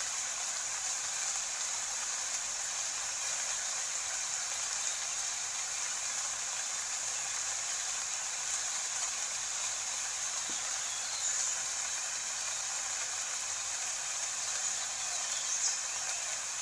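Steady rain sound, an even hiss with no low rumble.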